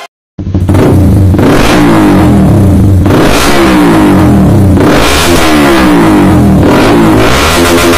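Small motorcycle with an aftermarket racing exhaust, running loud and revving. Its pitch climbs and drops back several times, every second and a half or so. It starts after a brief gap of silence.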